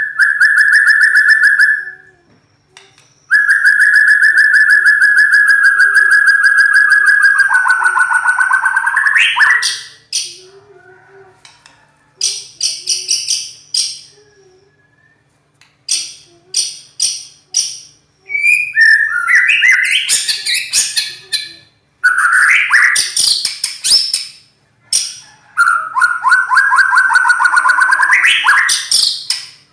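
White-rumped shama singing loudly: long, rapid, rough trills that slide down in pitch at their ends, alternating with quick runs of short sharp notes and brief pauses.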